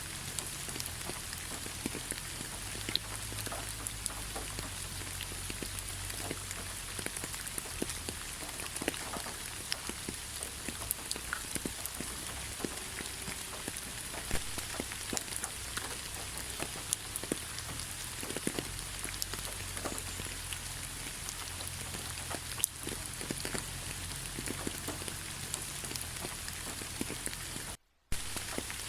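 Steady rain falling, with many individual drops ticking close by. The sound cuts out for an instant near the end.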